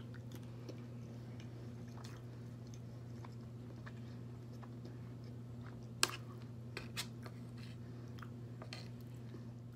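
Close-up, quiet chewing of food with a few light clicks of a metal spoon and fork against a metal baking tray; the sharpest click comes about six seconds in.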